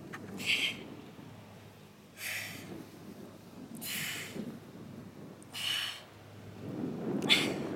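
A woman breathing out hard with each crunch: five short, hissy exhalations at an even pace of about one every 1.7 seconds. A low rustle rises near the end.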